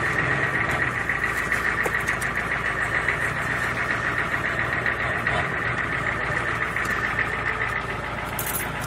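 Diesel engine idling with a steady, rapid clatter.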